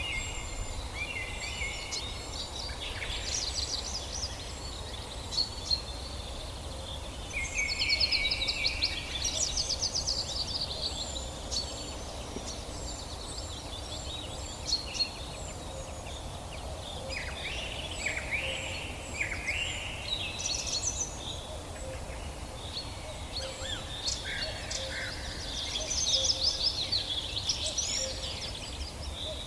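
Several songbirds singing at once in a forest: overlapping warbled songs, fast trills and short high repeated chirps, with a low steady rumble underneath.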